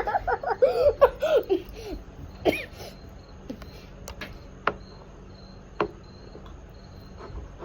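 A girl laughing with high, swooping giggles for about the first second and a half. Then it goes quiet, with a few small clicks and taps.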